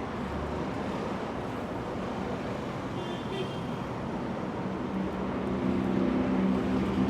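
City street traffic: a steady rumble and hiss of passing cars, with a heavier vehicle's engine hum growing louder over the last couple of seconds.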